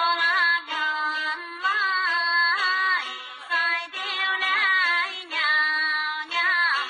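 Dong folk song: a woman's voice singing held notes that slide and bend at their ends, over a plucked string accompaniment.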